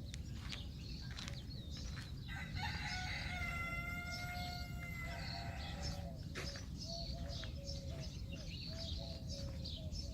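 A rooster crowing once, a long drawn-out call about two and a half seconds in, followed by a run of short repeated calls, while small birds chirp.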